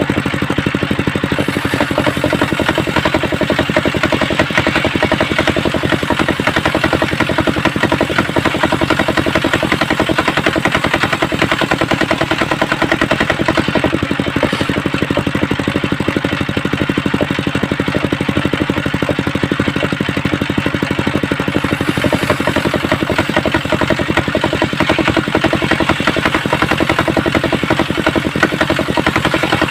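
Engine driving a homemade circular saw rig, running steadily at an even speed.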